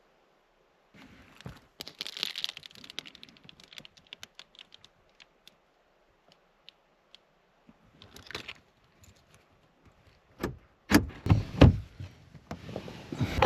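Rustling and sharp clicks of things being handled in the truck cab, then a run of several loud knocks near the end, followed by a steady rushing noise.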